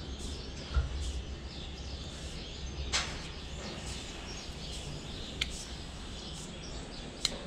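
Steady low background hum with a couple of light knocks and a few short, high chirps.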